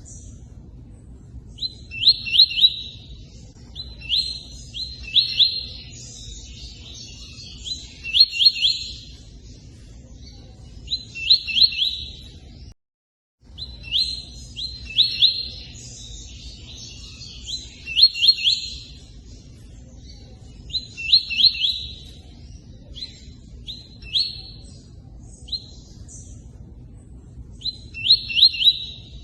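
Tui-tui bird singing in short bursts of quick, high chirps, a burst every three seconds or so, over a steady low rush of running water. The sound cuts out completely for about half a second near the middle.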